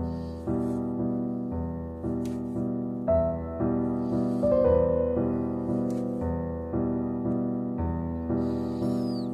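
Piano music playing in the background: soft chords struck about twice a second, each fading away, with a higher melody coming in about three seconds in.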